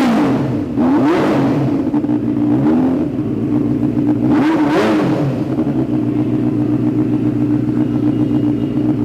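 Benelli 600cc inline-four motorcycle engine, just started, blipped on the throttle about four times in quick succession and then settling into a steady idle.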